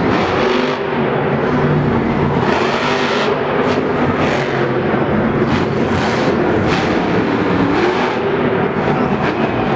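Monster truck's supercharged V8 engine running loud, its pitch rising and falling as the throttle is worked.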